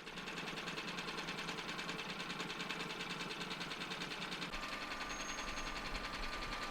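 A sailing yacht's engine running steadily with a rapid, even clatter as the boat motors out through a lock. A thin steady tone joins it about two-thirds of the way in.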